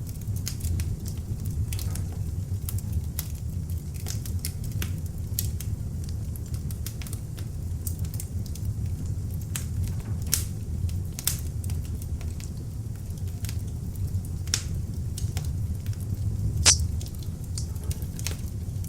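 Beech logs burning in an open fireplace: a steady low rumble of flame under frequent sharp crackles and pops, with one louder pop near the end.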